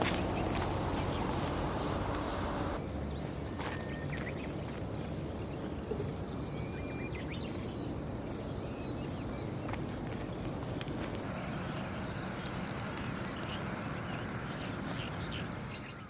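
An insect chirring in one steady, unbroken high buzz over a low background hiss, with a few faint clicks; it fades out just before the end.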